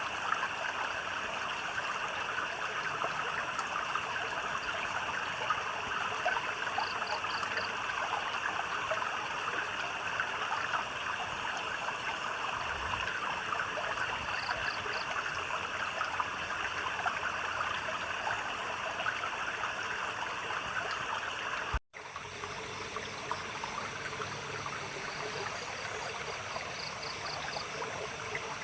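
Stream water trickling and babbling steadily. A small night creature's short pulsed chirp of a few quick notes recurs every several seconds. About three-quarters of the way in, the sound cuts out for a split second and then resumes.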